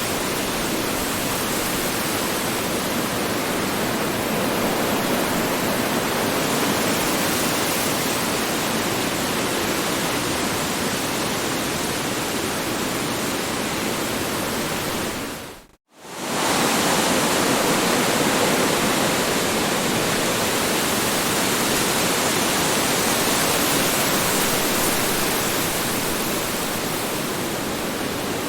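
Strong wind blowing as a steady, loud rushing noise. A little past halfway it fades out to near silence for a moment, then comes straight back at full strength.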